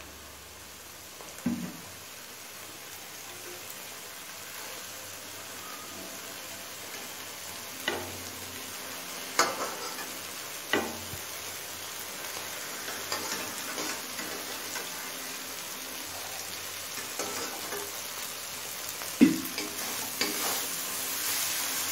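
Thick prawn masala gravy sizzling in a metal kadai while a flat metal spatula lifts out the prawns and stirs, knocking and scraping against the pan now and then. The sizzle grows louder near the end.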